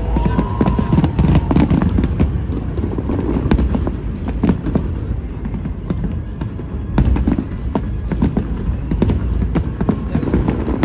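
Aerial fireworks exploding in quick succession: many sharp bangs and crackles over a continuous low booming rumble.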